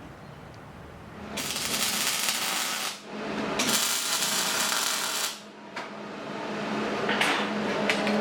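Three bursts of a metalworking tool working on steel, each about one and a half to two seconds long with short breaks between, over a steady low hum.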